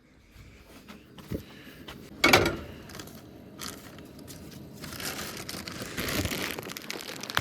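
Rummaging among camp cooking gear for tongs: scattered clicks and crinkling, with one loud clatter about two seconds in, then a steady hiss from about five seconds in.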